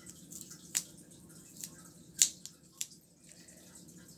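Sharp little clicks and snaps from a red rubber balloon being handled as a fidget toy; the three loudest come about three-quarters of a second in, a little after two seconds, and near three seconds, with fainter ticks between them.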